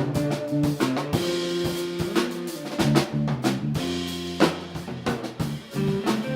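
Live band playing: a drum kit keeping a steady beat with kick and snare, under sustained bass and chord tones.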